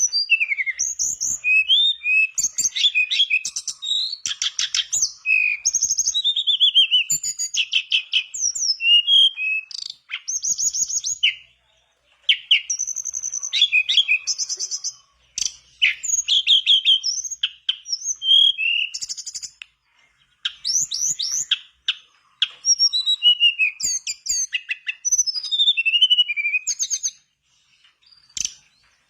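Tledekan bakau singing a fast, varied song of chirps, rapid trills and short sliding whistles, in phrases separated by brief pauses.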